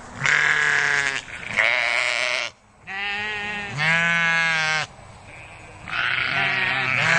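Sheep bleating repeatedly: about five long, wavering bleats, one after another with short gaps.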